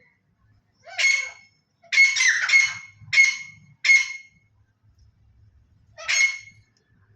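Black francolin calling: harsh, grating notes, one call about a second in, a quick run of calls over the next few seconds, and a last call near the end.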